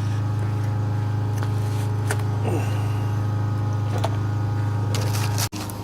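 Steady low mechanical hum with a few faint clicks and taps over it. It cuts off abruptly about five and a half seconds in, and a quieter background follows.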